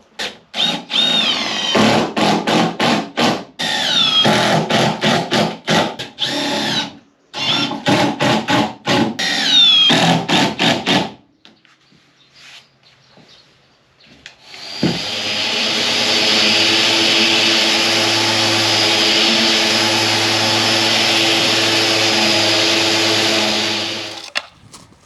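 Power tools on timber. First comes a drill-like motor in many short bursts, rising and falling in pitch with each trigger pull, for about ten seconds. After a short pause, an electric tool runs steadily at one pitch for about nine seconds and then stops.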